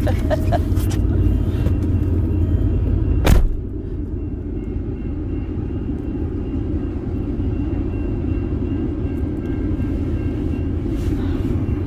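Car running with a steady low rumble. A single sharp knock comes about three seconds in, and the rumble is a little quieter after it.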